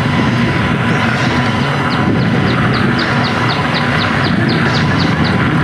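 A songbird singing a run of short, falling whistled notes, about four a second, starting about one and a half seconds in and stopping near the end. Under it runs a loud steady rushing noise from riding a mountain bike on a trail.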